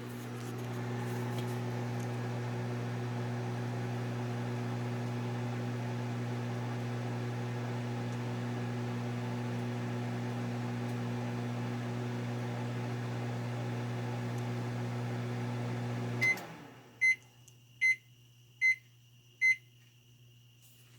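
1997 Panasonic microwave oven running at full power with a steady electrical hum. About sixteen seconds in it stops with a click, and four short high beeps follow, signalling the end of the cooking cycle.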